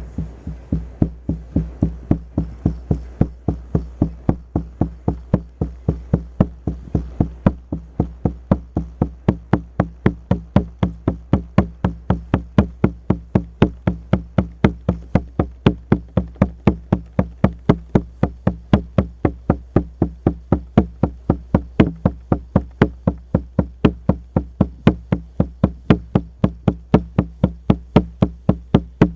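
Frame drum (buben) beaten in a steady, even rhythm of about three to four strokes a second, each stroke ringing low, starting abruptly at the outset.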